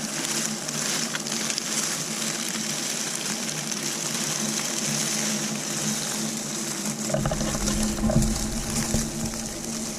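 Water rushing and splashing under a steady whir from a small electric motor, typical of an RC crawler driving through a stream. A low rumble and a few knocks join about seven seconds in.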